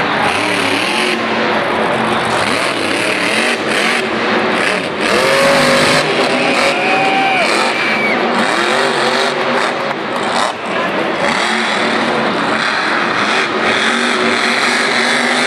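Monster truck engine running loud under hard throttle, revving up and down several times in the middle.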